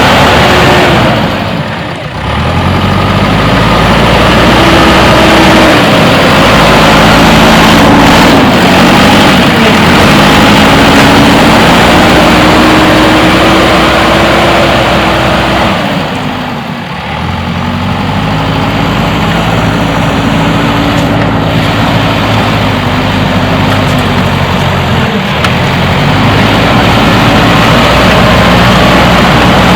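JCB backhoe loader's diesel engine running while it works, its revs rising and falling with the load, with brief drops in loudness about two seconds in and again about halfway through.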